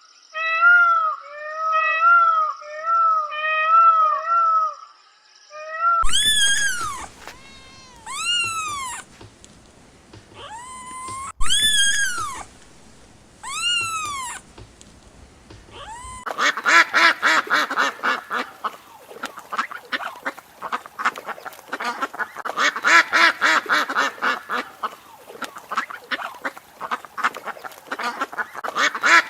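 Animal calls in three stretches: short mewing calls repeated about twice a second, then several long meows that rise and fall in pitch, then, past the halfway point, continuous rapid quacking of ducks.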